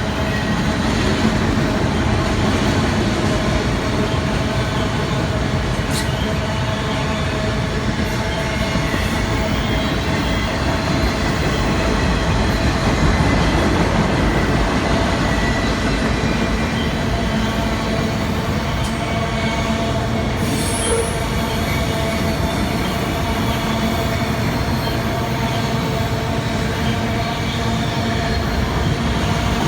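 Freight train rolling past: a steady rumble of cars on the rails, with a sustained wheel squeal held over it.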